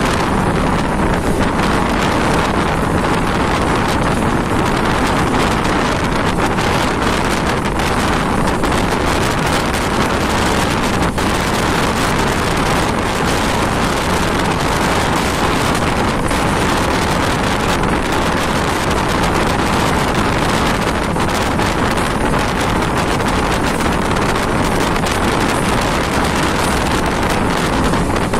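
Passenger train running: a steady, loud rush of wind and running noise from the moving coach, unbroken throughout.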